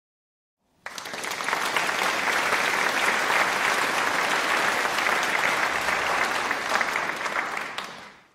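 Applause sound effect: a crowd clapping. It starts suddenly about a second in and fades out near the end.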